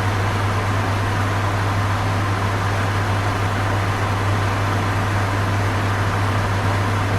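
Electric fan running steadily, a constant even whoosh of moving air over a low, steady motor hum.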